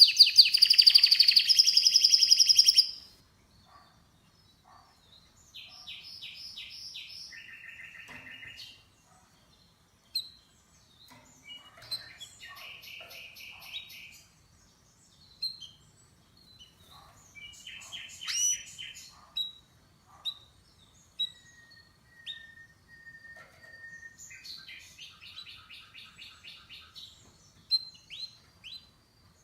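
Domestic canary singing: a loud, rapid trill for about the first three seconds, then quieter phrases of trills, short chirps and whistled notes with pauses between them, including one long steady whistle about three-quarters of the way through.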